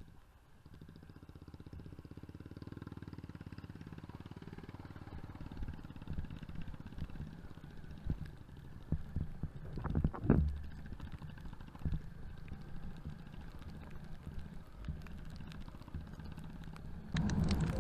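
Motorcycle engine running under way, muffled, with a jumble of knocks and clatter from bumps in a rough road and one louder thump about ten seconds in.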